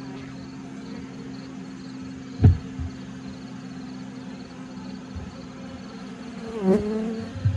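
Honeybees buzzing in a steady hum over an open horizontal hive, with a single knock about two and a half seconds in and a louder buzz that dips and rises in pitch near the end.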